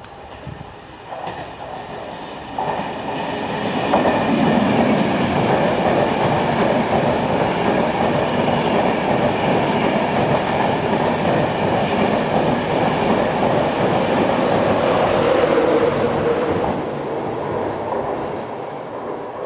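A train running past on the main line: the noise builds over the first few seconds, stays loud and steady with a wheel-on-rail rumble and a hum for about twelve seconds, then fades near the end.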